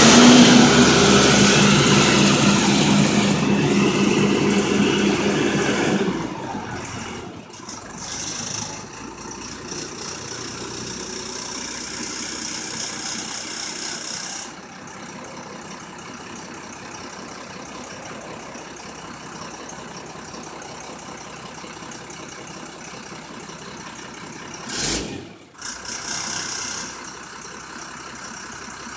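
Dump truck's engine running hard for about six seconds while the hydraulic bed is raised, then dropping back to a steady idle. A brief knock near the end.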